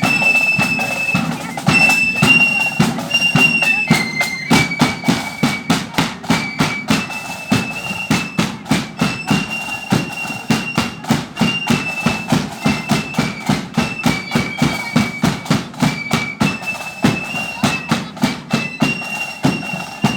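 Marching flute band playing a tune: a shrill, stepping melody from the flutes over steady, rapid snare drumming and a thudding bass drum beat.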